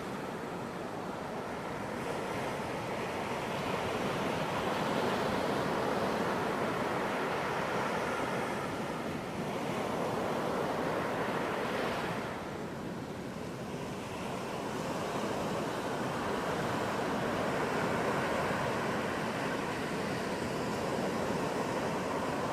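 Ocean surf washing onto a beach: a continuous rush of breaking waves that swells and eases, dipping briefly about nine and twelve seconds in.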